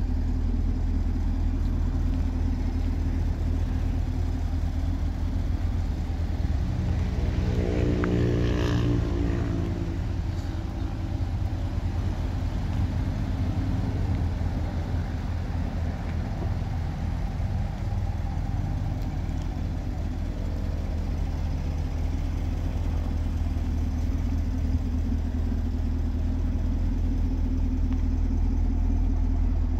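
2017 Camaro SS 1LE's 6.2-litre LT1 V8 idling steadily through its stock exhaust.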